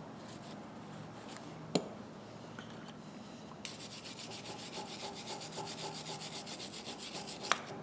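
Fast back-and-forth scrubbing on metal slip-joint pliers, about ten strokes a second, starting about halfway in; a single sharp click comes earlier.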